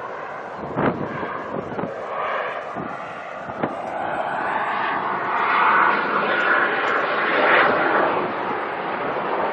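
Jet aircraft flying past, its engine noise swelling to a peak in the second half before easing off. This is most likely the airshow's Hawker Hunter and its Rolls-Royce Avon turbojet. There are a few faint knocks in the first few seconds.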